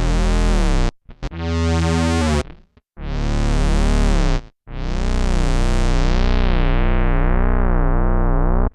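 Electric bass played through an MXR Bass Synth pedal, giving a buzzy synthesizer bass tone: four separate notes, the last held for about four seconds with its brightness slowly dulling as the filter closes.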